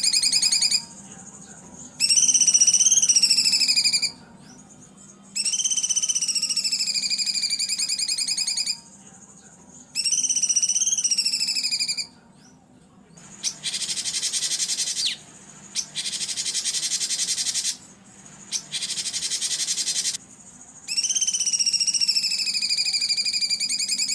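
Recorded songbird song: a run of buzzy, wavering calls about two seconds long with short gaps between them, then three harsh rattling calls in the middle, then the wavering call again near the end.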